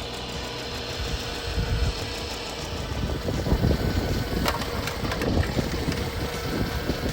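Hydraulic pump of a scale RC Liebherr R9800 excavator running with a steady whine, with irregular rumbling and rattling that grows louder from about three seconds in.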